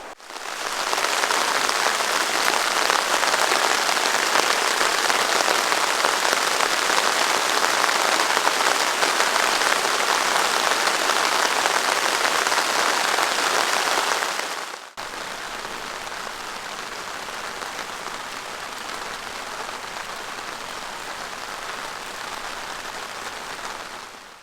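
Steady rain falling, an even dense hiss. It is louder for the first fourteen seconds or so, then cuts abruptly to a quieter patter of the same rain.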